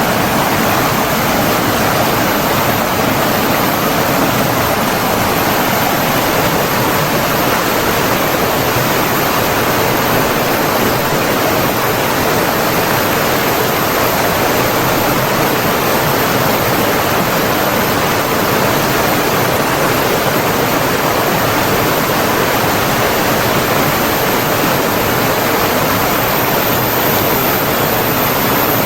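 Running water of a stream or waterfall rushing steadily, a dense, even hiss with no pauses.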